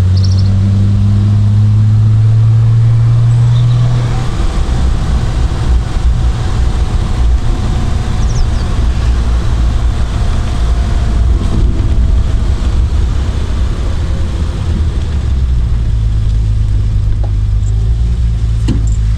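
Triumph Vitesse Mk2's two-litre straight-six engine running as the open-topped car drives along at a steady pace. Its note is steady for about the first four seconds, gives way to a rougher low rumble, and comes back about sixteen seconds in.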